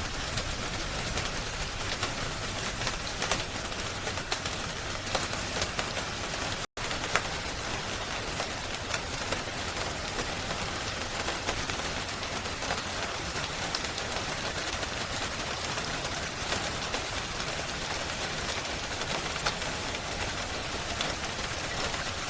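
Steady rain with scattered sharp crackles of a wood fire mixed in, an even hiss with frequent small clicks. The sound cuts out for an instant about seven seconds in.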